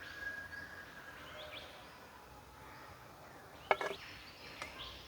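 Rainforest birds chirping and whistling over a quiet outdoor background, with a sharp knock about two-thirds of the way in and a smaller one shortly after.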